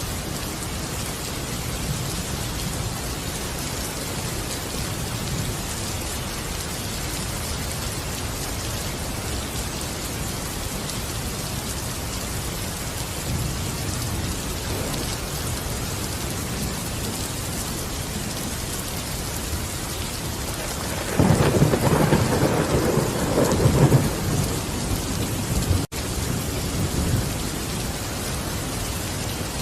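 Steady rain falling, with a roll of thunder swelling up about two-thirds of the way in and lasting a few seconds. The sound cuts out for an instant shortly after the thunder.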